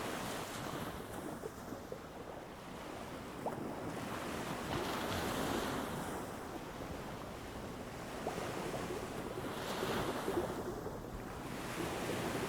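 Ocean surf washing onto a beach, swelling and easing about every five seconds.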